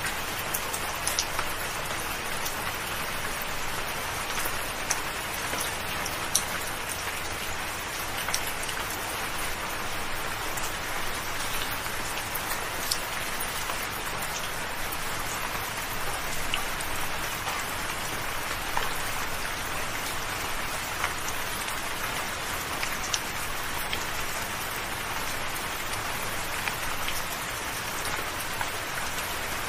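Soft, steady rain: a continuous even hiss with individual drops ticking here and there.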